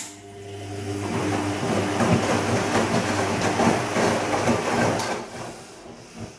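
Bosch Serie 2 VarioPerfect washing machine's drum turning for one short gentle wash stroke of the silk programme. It starts with a click, then the motor hum and the swish of wet laundry build and run for about five seconds before dying away, with another click near the end.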